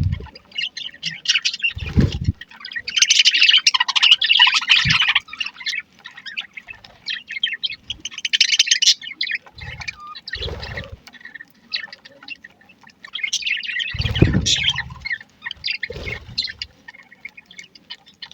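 A flock of budgerigars chirping and chattering together in a steady stream of high twitters, swelling into busier bursts several times. Occasional short low thuds sound among the chirps.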